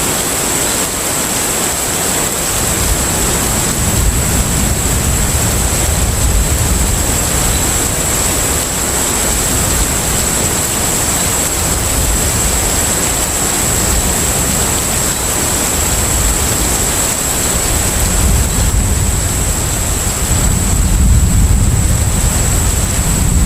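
Steady ambient noise of a container ship at sea: rushing water over a low engine rumble, with a thin steady high whine on top. The rumble grows louder near the end.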